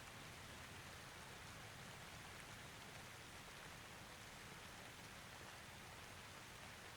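Faint, steady rain: an even hiss of falling rain with no thunder.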